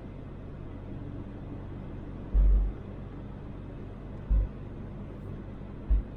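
Toyota Land Cruiser 80 driving, a steady engine and road rumble heard from inside the vehicle. Three short, deep thumps stand out, about two, four and six seconds in.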